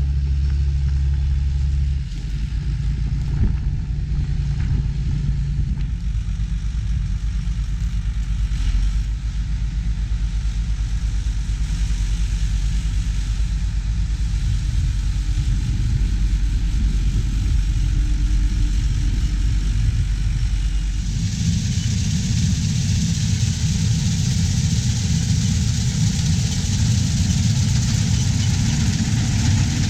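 Heavy farm machinery engine running steadily. About two-thirds of the way through, the sound changes abruptly to a louder, hissier rush over the engine.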